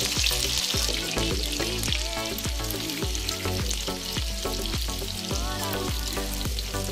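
Halved boiled eggs and tomato slices sizzling in hot mustard oil in a frying pan on medium flame, a steady crackling hiss, over background music.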